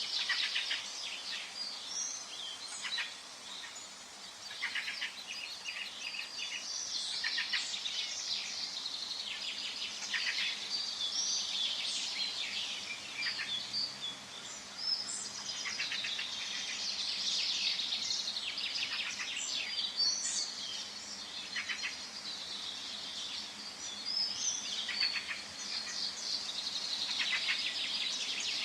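Several songbirds singing and chirping at once in a forest, overlapping trills and short high calls with no pause, over a faint steady background hiss.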